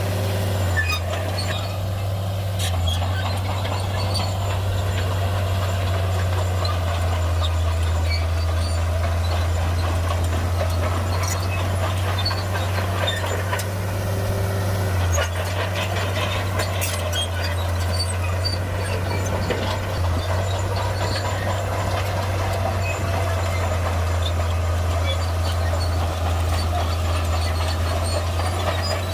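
Shantui bulldozer's diesel engine running steadily under load with a deep, even drone, with faint scattered clicks above it.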